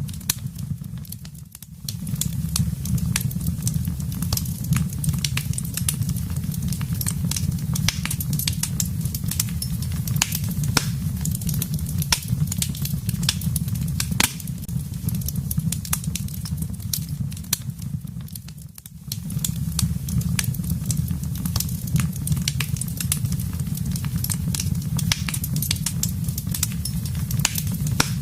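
Wood fire crackling with frequent sharp pops and snaps over a steady low rumble of the flames. Twice the sound briefly drops away and comes back, about a second and a half in and near nineteen seconds.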